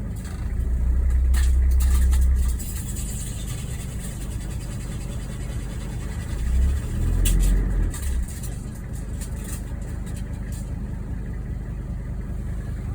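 Toyota Land Cruiser PZJ77's five-cylinder 1PZ diesel engine idling, rising twice in a low, louder surge, about half a second in and again about six seconds in, with a few sharp knocks near the surges. The abnormal noise comes from a broken flywheel.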